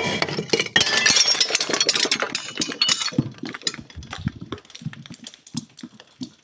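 Crunchy material being crushed: a sudden start, then a dense crackling crunch that thins into scattered crackles and soft thumps over the last few seconds.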